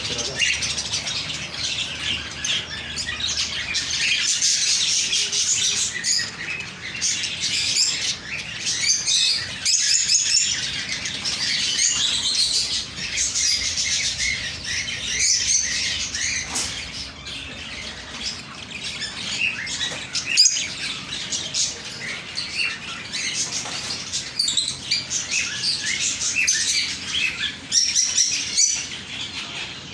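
Many small birds chirping and twittering together without a break, the calls overlapping, with a few sharp clicks, the loudest about two-thirds of the way through.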